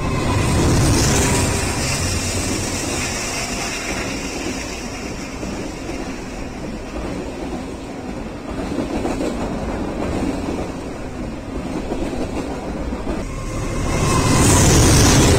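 BNSF freight train passing close: the locomotive goes by, then a steady rumble and wheel clatter from the flatcars carrying wind turbine blades. The sound swells loudest about a second in and again near the end.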